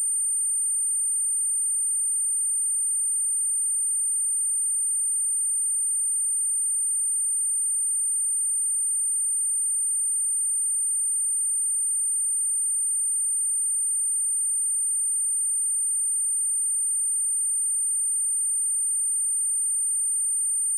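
A steady, high-pitched pure sine-wave test tone at 8976 Hz, held at one pitch and level without a break.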